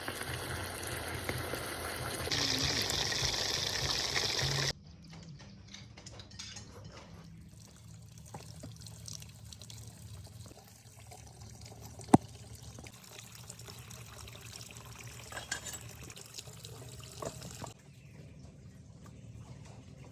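Water pouring for about five seconds, then cut off abruptly. A quieter stretch of trickling and drips follows, with small clicks and one sharp click about twelve seconds in.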